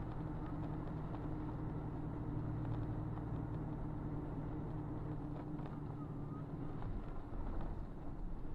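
Car engine running with road noise, a steady low hum that gives way to a rougher, deeper rumble after about six seconds.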